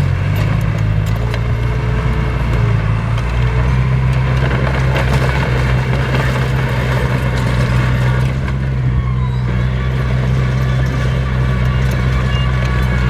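Heavy diesel engine of earthmoving machinery running steadily under load, with a constant low drone and occasional faint clanks.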